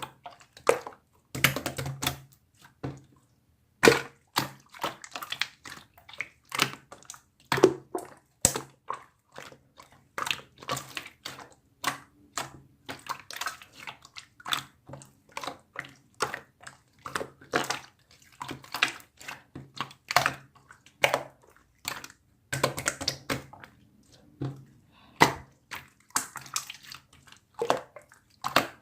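An irregular run of short clicks and taps, several a second with brief pauses, like typing or tapping.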